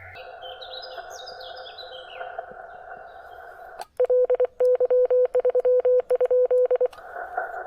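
Hiss from a shortwave transceiver's speaker, with a bird singing a descending run of high chirps in the first couple of seconds. About four seconds in, a steady mid-pitched tone keys on and off in Morse code for about three seconds, then the receiver hiss returns.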